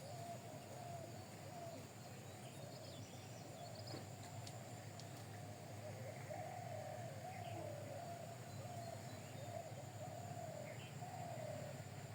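Faint bird calls: a run of low, wavering calls repeated again and again, with a few short higher chirps now and then, over a steady low hum.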